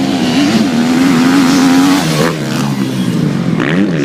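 Motocross bike engines revving hard as the bikes run on the track, loudest for the first two seconds, then the pitch drops and swings up and down with the throttle.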